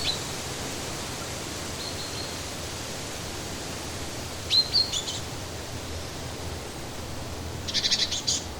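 Songbird calls, short high whistled notes in a few separate phrases and a quick run of repeated notes near the end, over a steady, even rushing noise.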